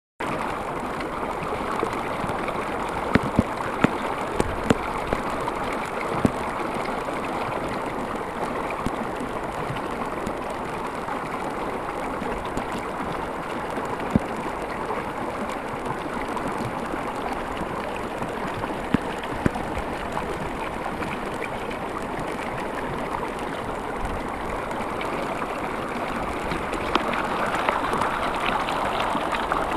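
Heavy rain and rushing rainwater, a steady rush with a few sharp taps scattered through it and growing a little louder near the end.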